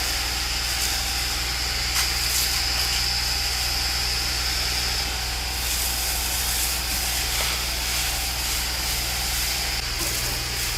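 Fire engine running steadily with a hose spraying water, making a constant hiss over the engine's low hum, with a few faint clicks.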